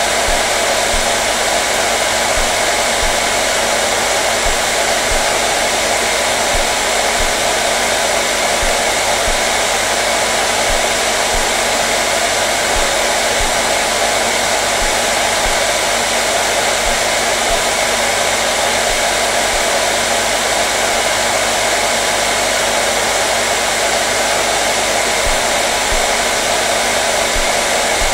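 Hair dryer running steadily on one setting: an unbroken rush of blown air with a faint motor hum and no change in speed.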